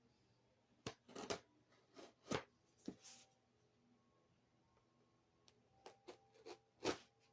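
Cardboard shipping box being worked open by hand: a run of short scrapes, rustles and clicks starting about a second in, pausing for a couple of seconds in the middle, then resuming.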